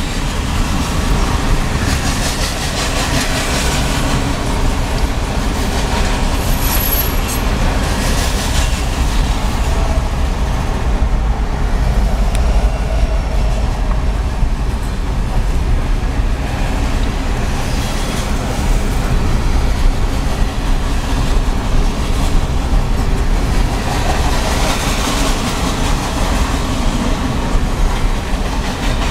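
Loaded grain hopper cars of a freight train rolling past, a steady rumble with wheels clacking over rail joints. A brief high wheel squeal about seven seconds in.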